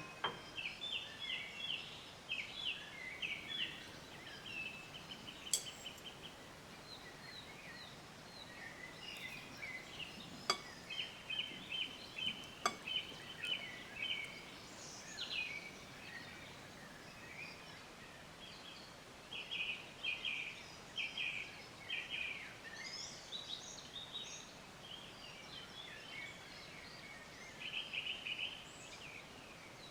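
Small birds chirping, with rapid runs of short high notes repeated every few seconds, over a faint outdoor hiss. A few sharp clicks sound about five, ten and thirteen seconds in.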